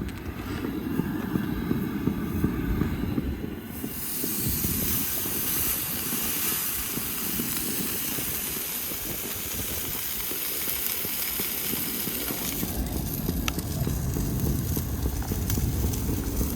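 A5 wagyu steak sizzling in a cast-iron pan, an even hiss that comes in strongly about four seconds in and drops back near the end. A steady low rumble runs underneath.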